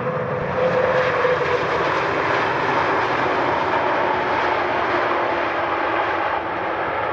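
Airplane engines passing close by, loud and steady, with their tone slowly falling in pitch as the plane goes past.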